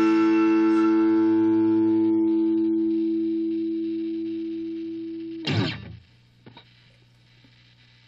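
Music: a sustained electric guitar chord with distortion effects, ringing and slowly fading, cut off about five and a half seconds in by a short noisy scrape. After it only a faint low hum with a few small clicks.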